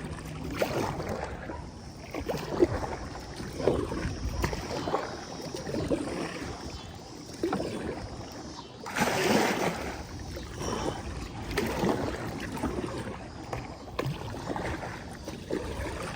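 Kayak on the water: water splashing with the strokes of a paddle, roughly once a second, with a bigger splash about nine seconds in.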